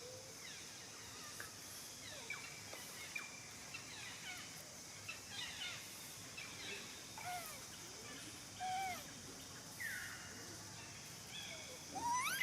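Macaques giving scattered short squeaks and chirping calls, each sliding down or up in pitch, over a steady high hiss.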